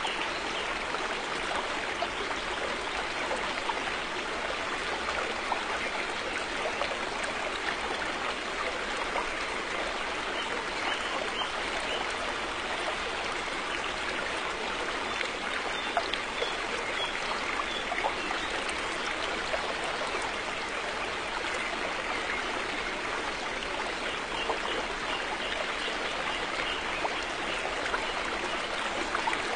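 River water flowing over rocks: a steady rushing with small splashes and trickles through it.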